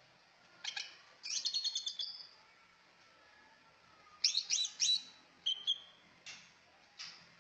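Trucak ijo songbird singing: short bursts of high chirps and a quick trill, separated by pauses of a second or more, with a run of three loud notes about four seconds in.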